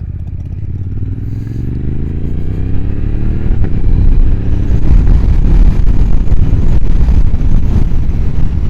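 Motorcycle engine accelerating, its pitch rising over the first few seconds, then running on at speed under a loud, rough low rush that grows louder.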